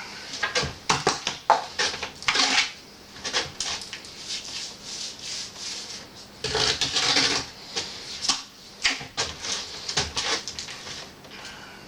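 Metal flue pipe being worked down onto its flange: irregular metallic knocks and clatter, with longer scraping sounds about two seconds in and again around seven seconds in.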